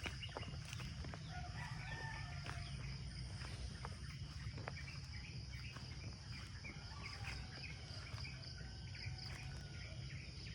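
Rural outdoor ambience: a steady high insect drone and a low rumble, with faint, distant calls of a rooster crowing, mostly in the first few seconds.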